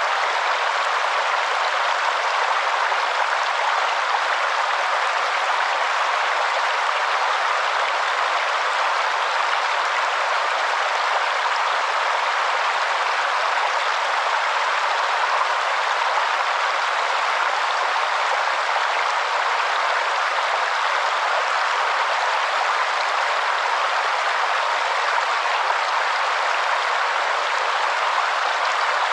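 Waterfall: a steady rush of falling water that keeps an even level, with no breaks or separate splashes.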